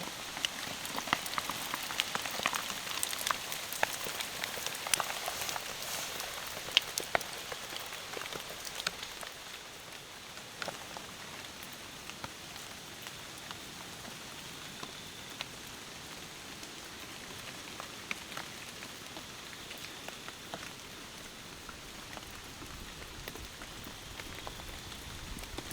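Steady rain falling, with single drops landing close by as sharp taps. The taps are thick and loud for the first several seconds, then thin out over a softer, even hiss of rain.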